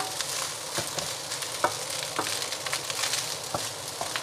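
Nasi goreng (fried rice) being stir-fried in a hot pan: a steady sizzle with several sharp knocks of a utensil against the pan.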